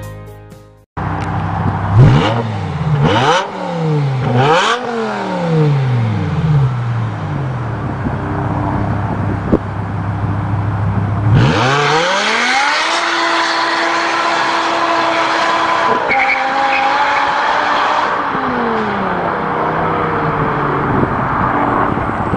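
BMW E60 M5's V10 through an Eisenmann exhaust, blipped in several sharp revs. About ten seconds in it climbs to a held high rev with a hiss of tyre squeal from a burnout, easing back down near the end.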